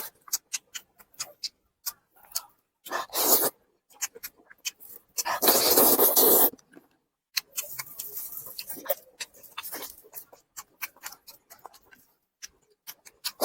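Close-miked eating: wet chewing and lip smacks in many short clicks, with a few louder slurps. The longest and loudest slurp comes about five seconds in.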